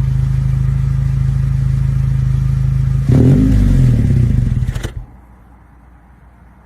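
Car exhaust through a MagnaFlow performance muffler, idling steadily, with a short rev blip about three seconds in. It then drops abruptly to a much quieter low rumble about five seconds in.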